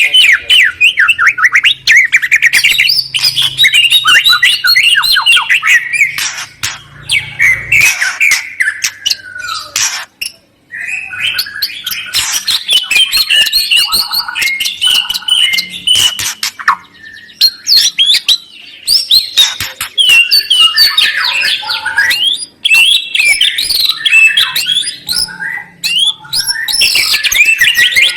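Loud, fast songbird song: rapid warbling phrases mixed with sharp clicking and chattering notes, with a short break about ten seconds in.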